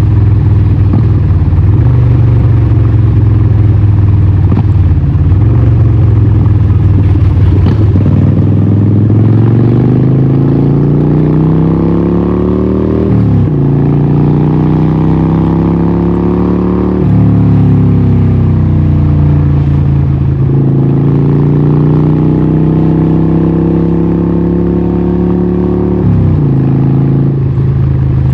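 Harley-Davidson 1200 Nightster's Evolution V-twin through a Vance & Hines exhaust, running steadily at first, then pulling up through the gears: the note climbs, drops sharply at each shift, and climbs again, three shifts in all.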